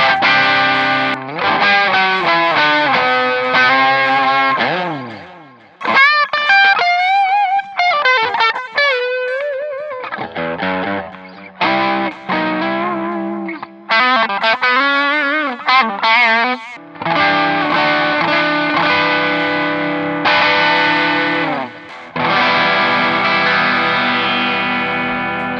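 Clifton Alnico Stratocaster electric guitar played through distortion. Ringing held chords slide down in pitch about five seconds in, then comes a single-note lead line with wide vibrato. Long sustained chords close it.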